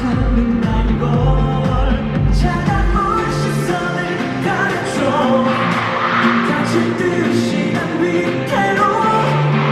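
Live K-pop stage performance: a male singer's vocals over a pop backing track. A steady, deep beat drops out about three seconds in, leaving the voice over the lighter accompaniment.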